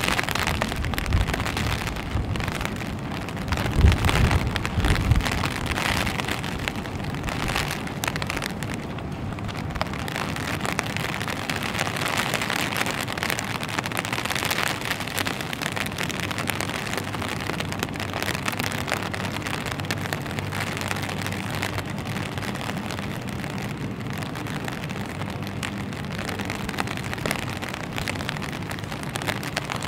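Steady rain falling and spattering on a wet street, an even hiss of drops. A few low rumbles come about four seconds in, and a faint low hum sets in over the second half.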